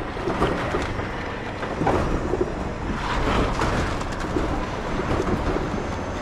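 Concrete slab pour in progress: a machine running steadily under the irregular scraping and clatter of workers handling wet concrete.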